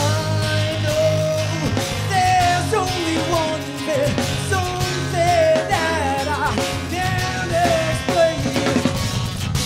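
Live rock band playing, with a steady bass and drum beat under a lead melody that slides and bends in pitch.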